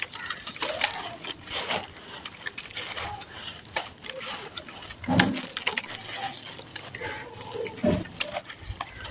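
Dry, brittle moulded chunks being crumbled and crushed by hand: a run of sharp crunches and crackles, with two heavier crunches about five and eight seconds in.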